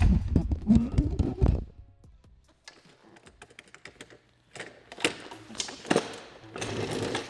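Hard plastic clicks and knocks from the wheels and body of a Husqvarna electric pressure washer being handled and rocked by hand: a quick run of clicks for the first second and a half, a quiet stretch with a few light ticks, then more clicking and tapping from about halfway through.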